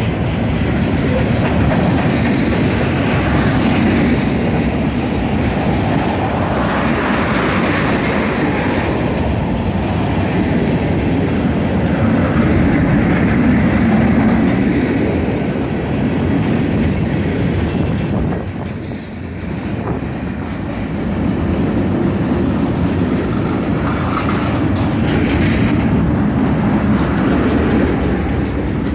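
Freight train rolling steadily past, its cars' wheels clattering over the rail joints. Near the end a diesel locomotive goes by close.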